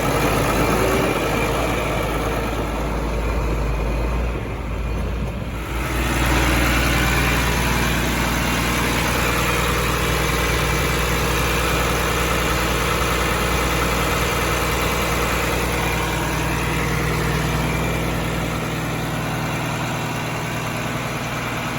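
John Deere 4250 tractor's six-cylinder turbocharged diesel engine idling steadily. Its note dips briefly and changes about five to six seconds in, then holds even again.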